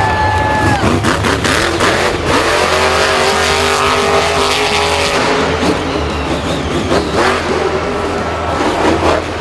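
Engine sound of a racing vehicle, revving with a slight rise in pitch in the middle, over a steady low hum and many clicks and knocks.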